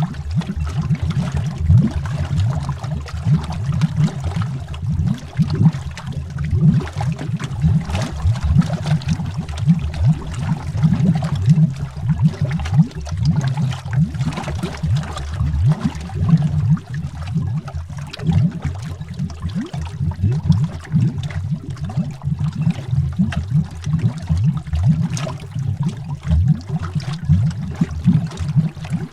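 Bubbles rising through water as heard underwater: a dense, continuous stream of deep, irregular blips and gurgles.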